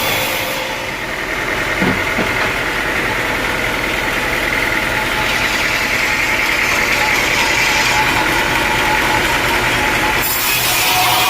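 Sawmill machinery running steadily, a loud mechanical hum with a sharper band in the upper middle; the hiss changes about a second in and again near the end.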